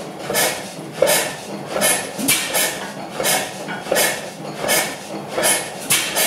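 Crossley slide-valve stationary gas engine running, with a regular clattering beat of about four strokes every three seconds.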